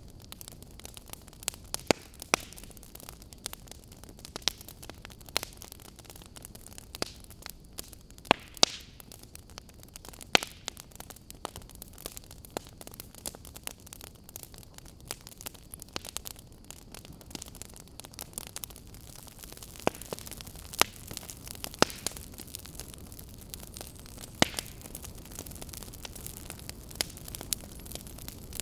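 Wood fire crackling: a steady soft hiss with irregular sharp pops and snaps from the burning firewood, a handful of them much louder than the rest.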